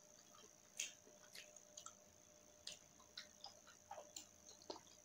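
Faint, irregular wet mouth clicks and smacks of a person eating boiled okra by hand and chewing.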